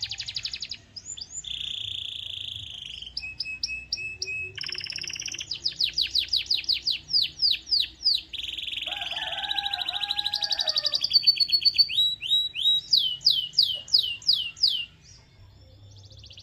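Canary singing: fast rolls of repeated falling whistled notes, trills and a held buzzy note, stopping about a second before the end.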